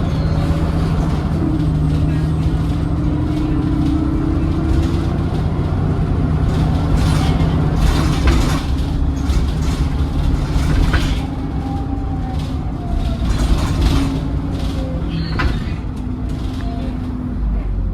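Alexander Dennis Enviro400 double-decker bus heard from on board while under way: a steady engine drone with a whining note that slides slowly in pitch as the bus accelerates and eases off. Short rattles and knocks break in several times in the second half.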